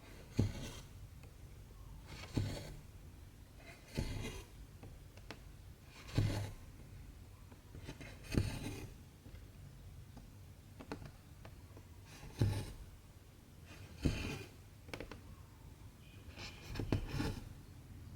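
Needle and cotton thread drawn through cross-stitch fabric, one stitch about every two seconds. Each pull starts sharply and trails off in a short rasp.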